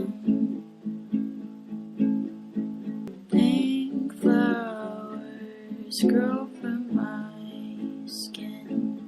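Music: a small acoustic plucked-string instrument strummed in a steady, even rhythm, as the closing accompaniment of a short acoustic song.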